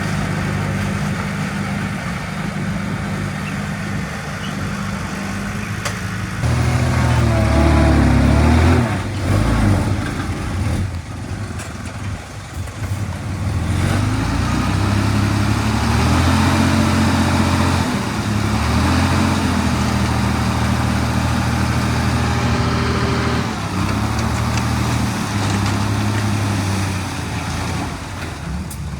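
Heavy diesel engine of earthmoving machinery running. About six seconds in it revs up and gets louder, wavers for a few seconds, then works on steadily at higher revs.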